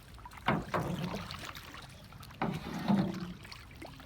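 Canoe paddles dipping and splashing in the water, a few separate strokes, two near the start and two more past the middle.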